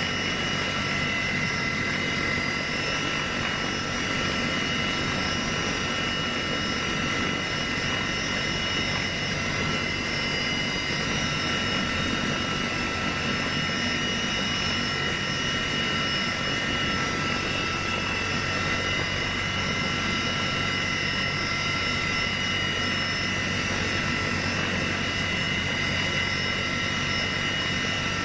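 Steady engine drone with several constant high whining tones, unchanging in level.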